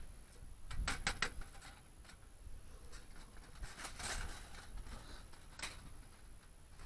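A few quick clicks and light knocks about a second in, a softer scrape near the middle and one more click later: small objects being handled.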